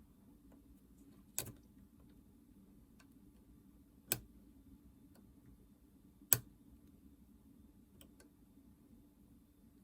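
Three sharp clicks of small hard objects set down or tapped on the workbench, a couple of seconds apart, with a few fainter ticks near the end, over a low steady hum.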